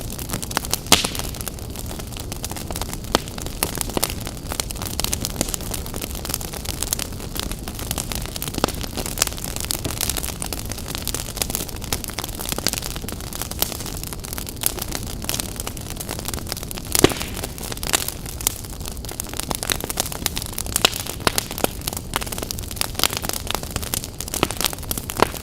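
Wood fire burning, with a dense, irregular crackle and pops over a steady low rush; a few louder pops stand out, the loudest about two thirds of the way through.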